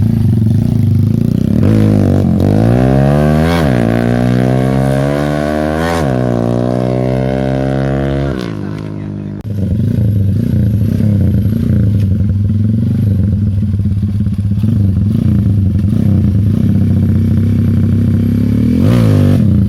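Motorcycle engine breathing through a DOS aftermarket racing exhaust, idling and revved up twice in the first eight seconds, each rev climbing in pitch. The revs sag about nine seconds in, it settles back to a steady idle, and it is blipped again briefly near the end.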